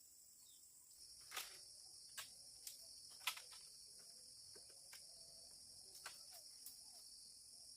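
Steady high-pitched chorus of crickets, faint, with a few scattered sharp clicks, the loudest about three seconds in.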